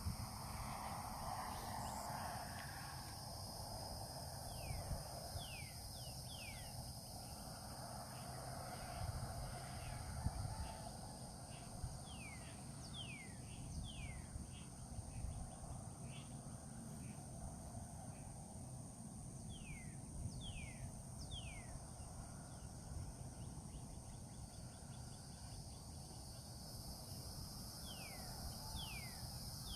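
Outdoor nature ambience: a steady high-pitched insect drone, with short calls that fall in pitch, sounding singly or in twos and threes every few seconds. A low rumble, like wind on the microphone, runs underneath.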